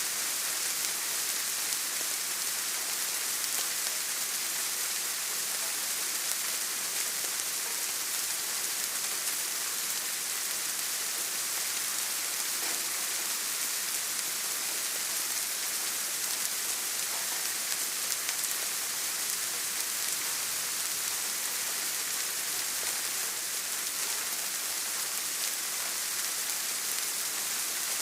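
Steady rain falling, an even hiss strongest in the high range with faint scattered drop ticks.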